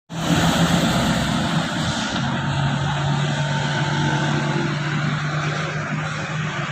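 Truck engine running with a steady, loud drone that begins abruptly; its pitch steps down slightly about two seconds in.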